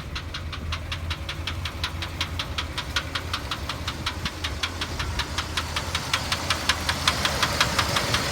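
1986 Chevrolet C30's 454 V8 idling with a regular knock about six times a second, getting louder toward the end. Where the knock comes from in the engine is not known.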